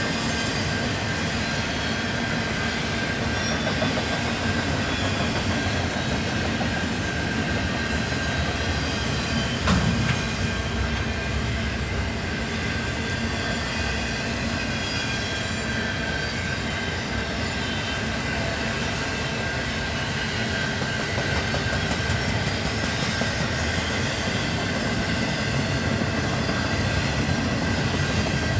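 CN double-stack intermodal container train's loaded well cars rolling past at a steady speed: a continuous rumble of steel wheels on rail, with a thin steady high tone over it and one louder knock about ten seconds in.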